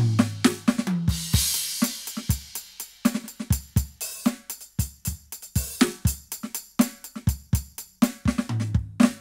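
Roland TD-17KVX electronic drum kit played through its sound module: a drum groove of kick, snare and hi-hat, with crash cymbals about a second in and a tom fill stepping down in pitch near the end.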